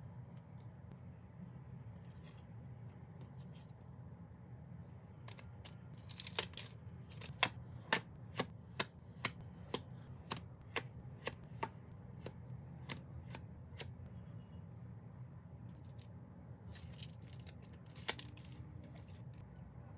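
Hands opening a package: a run of about a dozen sharp clicks or snips, about two a second, then a few more near the end, over a low steady hum.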